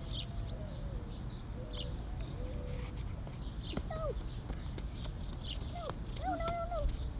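A bird chirping outdoors, a short high call repeated about every one and a half to two seconds, over a steady low rumble.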